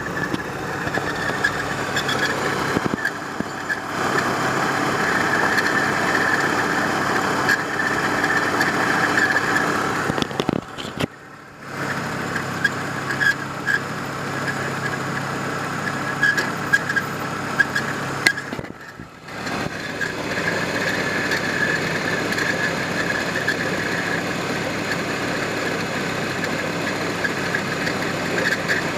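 1993 Volvo 850's inline five-cylinder engine idling with a steady high-pitched squeak running over it. The squeak is most likely a bad pulley, the idler or the timing belt tensioner.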